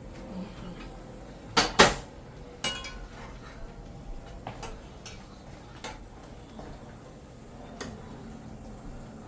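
Kitchen pots and utensils being handled: two loud knocks close together, then a ringing metal clank, followed by scattered light clicks and taps.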